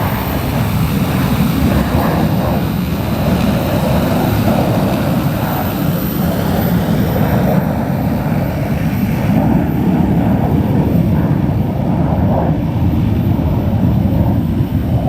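Rotors of a 15-litre agricultural spraying drone running steadily in flight, a continuous propeller noise.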